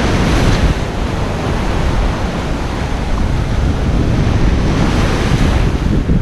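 Ocean surf breaking and washing up a beach, swelling twice, with wind buffeting the microphone in a low rumble.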